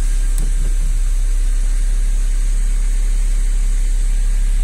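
Volkswagen car engine idling steadily just after a cold start, a low steady hum heard from inside the cabin.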